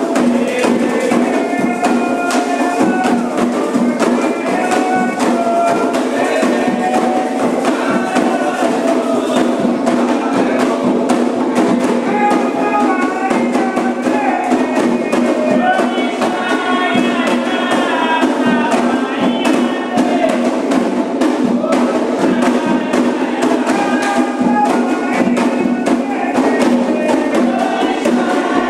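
Candomblé ritual music: atabaque drums and other percussion keep a steady, driving rhythm under voices singing a chant.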